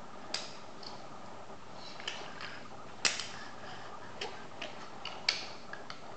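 Small hard toy pieces clicking and knocking as they are handled: irregular sharp clicks, the loudest about three seconds in and again a little after five seconds.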